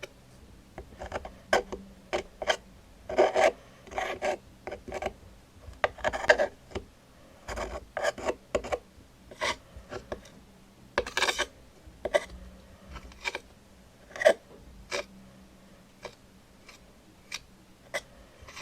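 Irregular scratching and rubbing strokes, short rasps made singly or in quick clusters with pauses between, as in ASMR trigger play.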